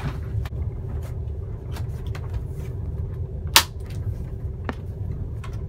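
Steady low rumble of a moving passenger train heard from inside a compartment, with scattered knocks and clicks from someone climbing onto an upper bunk. The sharpest knock comes about three and a half seconds in.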